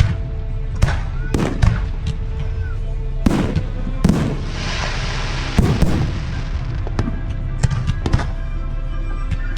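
Aerial fireworks bursting, a sharp bang every second or so, with a dense crackling spell about halfway through.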